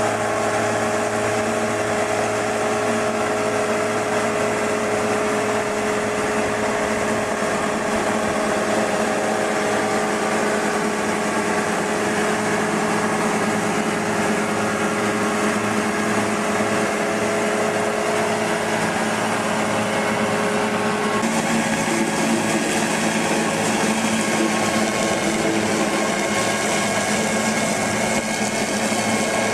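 Machinery running steadily with a constant whine of several even tones over a noisy rush; the sound shifts abruptly about two-thirds of the way through.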